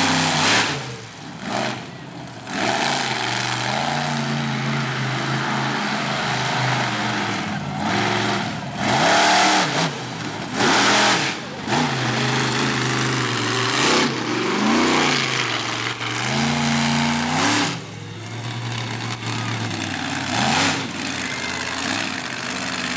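Monster truck engine revving hard again and again, its pitch climbing and dropping with the throttle. Several short, loud bursts of noise cut across it.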